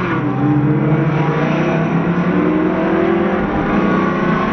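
Car engine accelerating hard, its pitch climbing in several successive rises.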